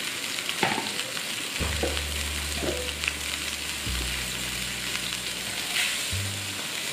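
Spice paste with lemongrass frying in oil in a wok: a steady sizzle, with a few light clicks and knocks scattered through.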